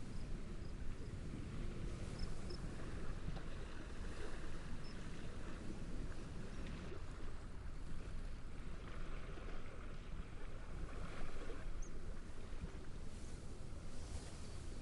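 Steady wind rustling through reeds over gently lapping waves, with faint short high chirps now and then.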